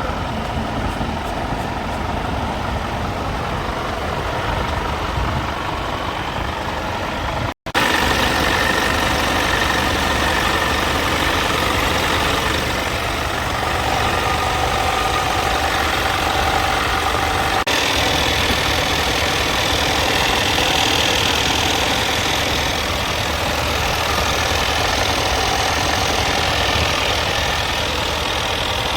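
Scania P320 tractor unit's five-cylinder diesel engine idling steadily. There is a brief break about seven and a half seconds in, after which it runs a little louder.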